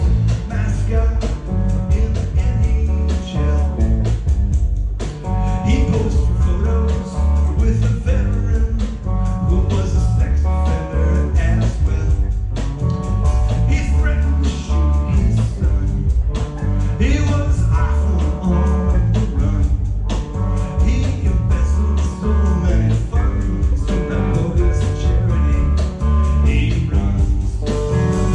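A live rock band playing a blues-tinged song: electric guitar, bass and a drum kit keeping a steady beat, with a voice singing.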